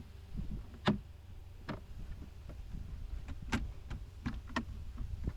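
A car's glove compartment being forced back into place: a few sharp, irregular clicks and knocks as it is pushed and snapped into its mounts.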